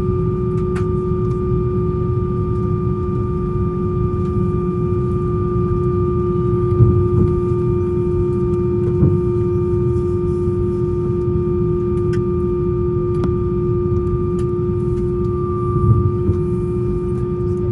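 Steady hum and low rumble inside an Airbus A320 cabin at the stand, with a steady tone over it and a few faint clicks and soft bumps.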